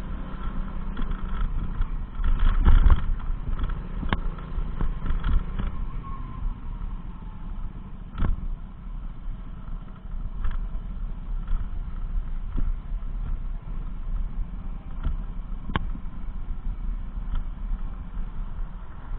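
Steady low rumble of a motor vehicle running, with a few sharp clicks and knocks, the loudest about three seconds in.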